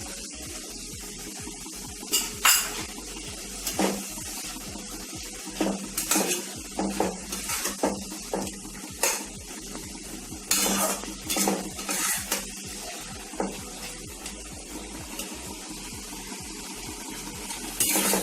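A utensil scraping and knocking against a pan in irregular strokes while stirring sauces into fried onions and capsicum, over a faint steady sizzle.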